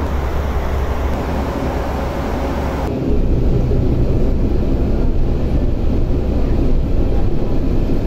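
Steady low vehicle rumble with no words, changing abruptly about three seconds in to a louder, deeper rumble.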